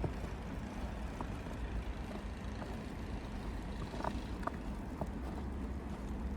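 Steady low rumble of city traffic, with a few faint short ticks about four seconds in.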